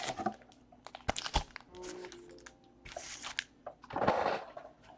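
Trading card pack wrappers being handled and opened: scattered clicks and light taps, with two short crinkling rustles about three and four seconds in.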